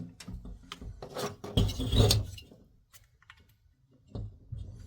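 Diesel heater parts being handled and fitted together by hand: scattered clicks, scrapes and rubbing, busiest in the first half, then a short quiet pause before a few more clicks near the end.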